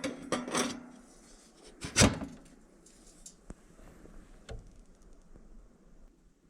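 A few knocks and rattling clatters, the loudest a single knock about two seconds in, followed by a few faint clicks.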